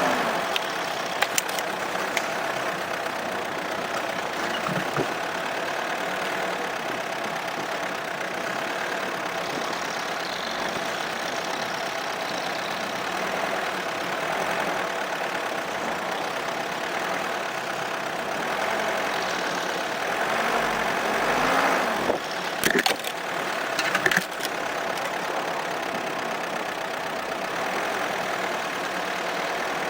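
Opel Monterey SUV driving off-road through snow: its engine runs steadily under a broad rushing noise, with a few sharp knocks about three quarters of the way through.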